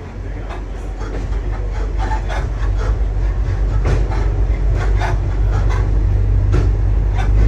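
Waggon und Maschinenbau diesel railbus under way, its engine droning low and growing steadily louder as it picks up, with irregular clicks and knocks of rattling and running on the rails.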